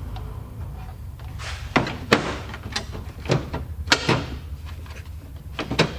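A taillight assembly being fitted back onto a Jeep Grand Cherokee, giving about nine sharp, irregular knocks and clunks, starting a couple of seconds in.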